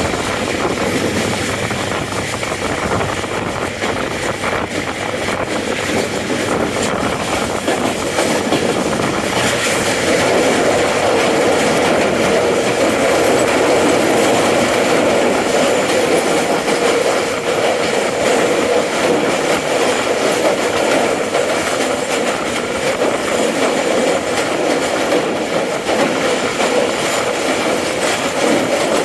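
Passenger train running along the track: a steady rush of wheels on rails with a humming ring that grows stronger about a third of the way in.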